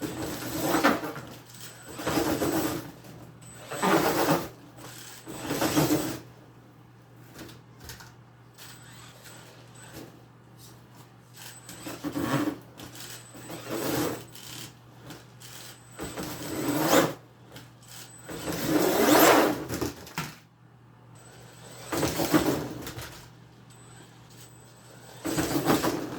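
Brushless electric RC monster truck driven in short throttle bursts, about ten of them with pauses between, each a brief motor-and-tyre surge.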